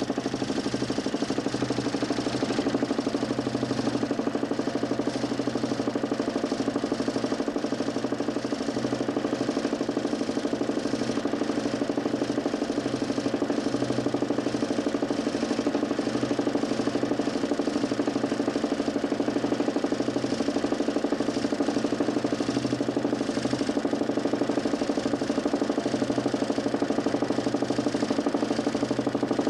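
DC motor spinning a 40 cm plywood Nipkow disc in a homemade 32-line mechanical television, a loud, steady running noise with a fine, rapid flutter that never changes speed.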